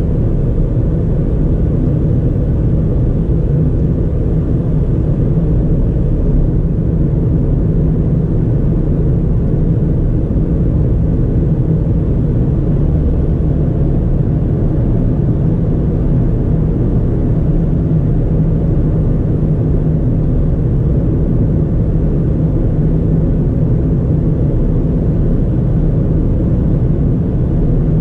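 Ford Fiesta 1.4's four-cylinder engine and tyres at a steady cruise: an even low rumble that neither rises nor falls.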